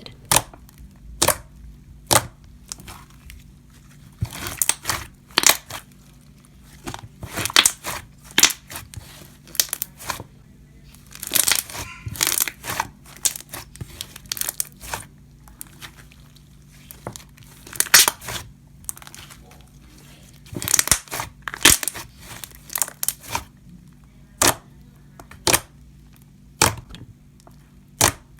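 Slime being poked and squished by hand, giving irregular sticky pops and crackles, some single and some in quick clusters.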